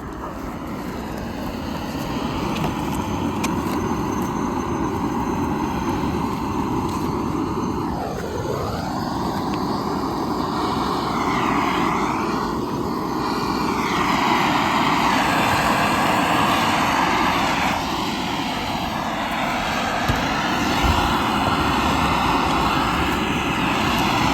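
Gas blowtorch burning with a steady rushing flame, aimed at damp firewood to get a campfire going. The pitch dips and comes back about eight seconds in, and it grows louder about halfway through.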